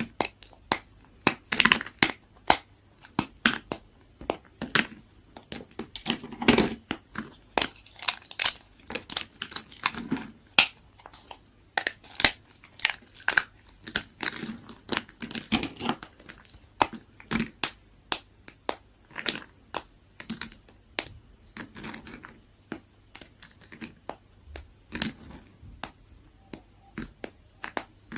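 Knife cutting through dry, brittle bar soap, with a dense, uneven run of sharp crackles and crunches as the soap shavings break.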